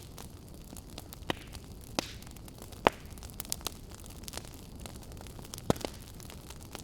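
Wood fire burning in a fireplace: a steady low rumble and hiss of flames with irregular sharp crackles and pops, the loudest about three seconds in and again near the end.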